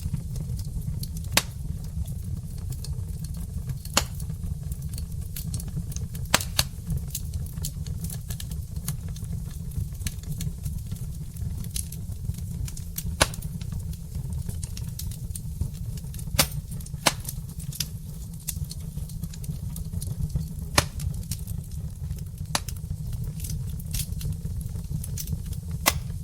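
Wood fire burning in a brick fireplace: logs crackling with sharp, irregular pops every second or so over a steady low rumble.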